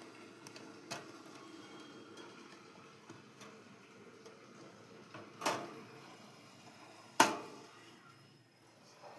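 A few sharp knocks or clicks over a faint steady background: one small one about a second in, a stronger one about five and a half seconds in, and the loudest about seven seconds in.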